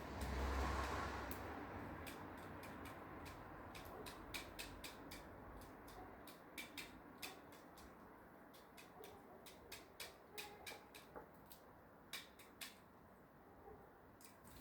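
Many faint, irregular small clicks and ticks, with a low rumble during the first couple of seconds.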